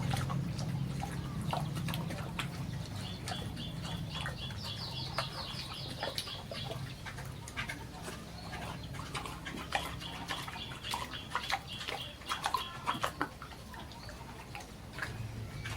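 Farm animal sounds: a bird's rapid repeated chirping comes twice, with scattered knocks and a low hum underneath.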